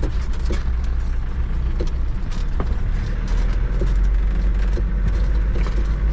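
An off-road vehicle's engine running steadily with a deep rumble, heard from on board, with scattered light knocks and rattles.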